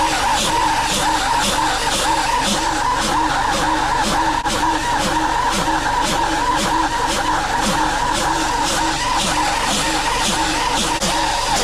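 Farm tractor running steadily under load, with a rhythmic clatter a little over twice a second from the machinery it is working.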